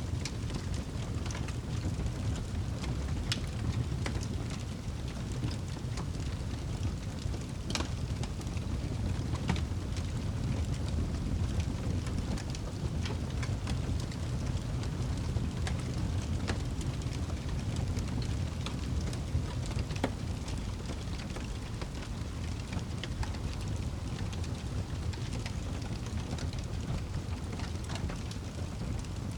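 Wood fire burning in a fireplace: a steady low rumble of the flames with scattered crackles and pops, a few of them sharper and louder.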